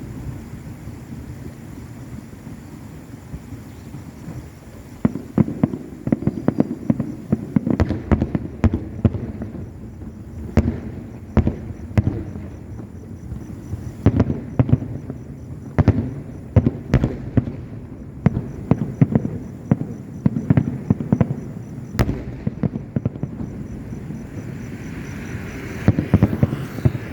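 Aerial fireworks display: shells bursting in rapid, irregular succession with deep booms and sharp cracks over a steady rumble. The bursts grow dense from about five seconds in.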